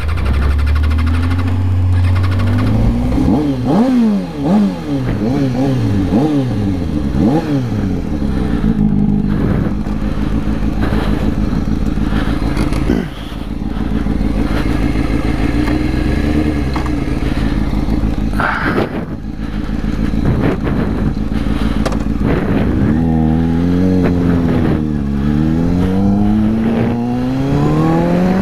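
2005 Kawasaki ZX-6R's inline-four engine accelerating, its pitch rising and dropping back with each upshift, then running steady at cruising speed before climbing through the gears again near the end.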